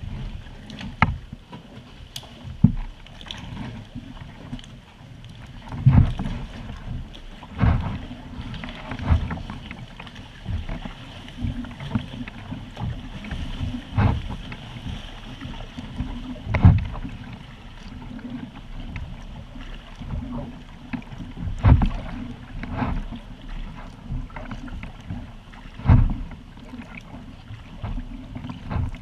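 Kayak on open water: water sloshing and slapping against the hull with paddle strokes, a low rumble broken by sharp splashes every second or two.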